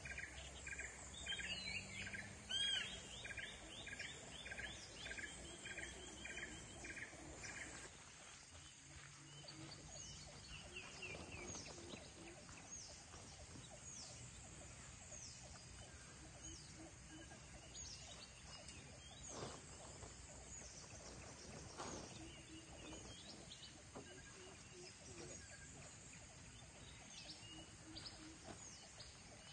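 Faint outdoor wildlife ambience at a jungle campsite. For the first several seconds there is an even series of high call notes, about one and a half a second. After that, scattered high, falling chirps continue over a soft steady background.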